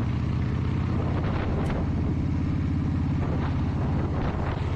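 Motorcycle engine running at a steady speed, with road and wind noise.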